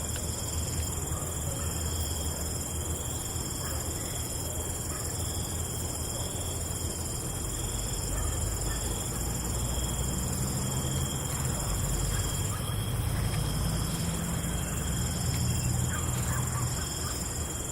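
Night ambience: a steady, high-pitched chorus of crickets over a wash of noise, with a low rumble that grows louder in the second half.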